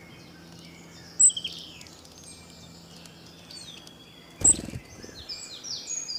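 Birds chirping and twittering throughout, with a sharp click about a second in and a louder sharp knock about four and a half seconds in.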